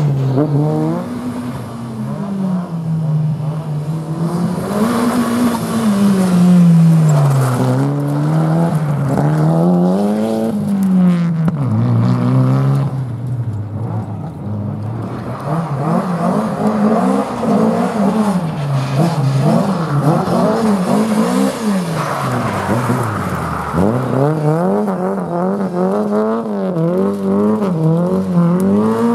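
An Opel race car's engine is driven hard, revving up and dropping back again and again as it is worked through the slalom on gravel. The engine note rises and falls every couple of seconds, with one deep drop about 23 seconds in.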